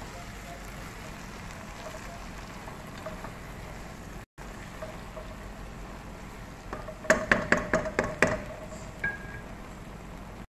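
Chicken and mixed vegetables sizzling in a pot while stirred with a wooden spoon, a steady hiss. About two-thirds of the way in come about seven quick ringing knocks of the wooden spoon tapping against the pot.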